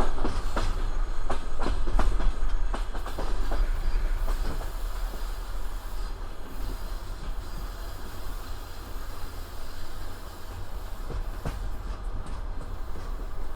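Passenger train wheels rolling on rails, a steady low rumble with a flurry of sharp clacks over the first few seconds, then only occasional clacks as the sound settles.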